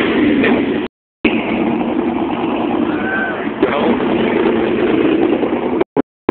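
Loud car engine running hard at a burnout show, with a dense, noisy roar; the sound cuts out abruptly for a moment about a second in and again just before the end.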